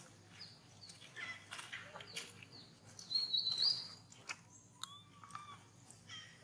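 Birds chirping in short, high calls; the loudest is a rising whistled call about three seconds in, followed by a couple of arching lower calls.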